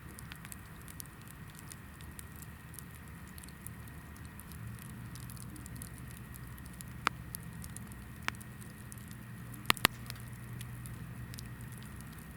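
Hinoki (Japanese cypress) firewood burning in a campfire, crackling lightly and constantly over a low rumble of flame. It gives a few sharp pops: one about seven seconds in, another a second later, and a quick double pop soon after.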